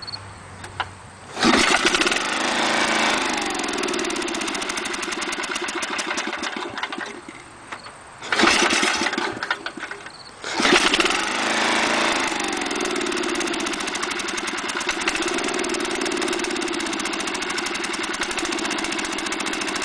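Warm Snapper mower's Briggs & Stratton engine at full throttle, cutting out and catching again by itself. It picks up about a second and a half in and runs, then sags and nearly stops around seven seconds in, sputters briefly, drops again, and catches once more about ten seconds in before running steadily. The owner likens it to missing, a fault that appears only once the engine is warmed up.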